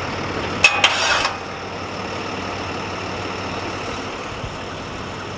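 A vehicle engine idles steadily. A little under a second in, there is a short burst of sharp clicks and rattling lasting about half a second.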